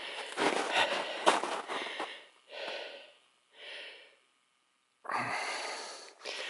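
A person breathing heavily and audibly close to the microphone, in a run of noisy breaths with short pauses between them.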